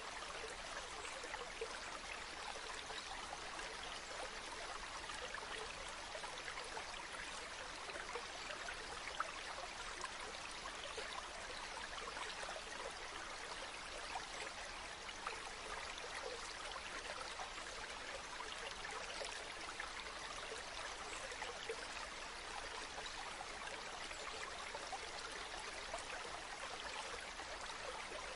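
Running water: the steady, even rush of a stream or waterfall, with fine splashing flicker throughout.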